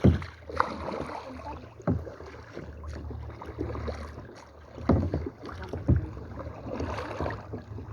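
Kayak paddling: water swishing against the boat and paddles, with four sharp knocks spread through the stretch.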